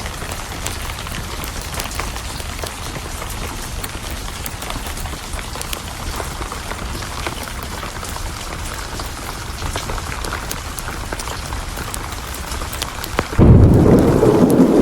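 Steady rain with scattered sharp ticks. About a second before the end, a sudden loud crack of thunder breaks in and rolls on as a deep rumble.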